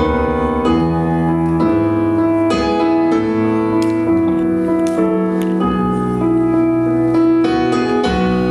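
Live band playing an instrumental passage of a slow rock song between sung lines. Keyboard chords lead over bass notes, changing about once a second.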